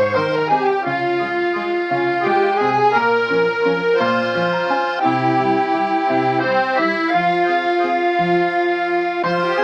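Background music led by an accordion playing a melody over bass notes.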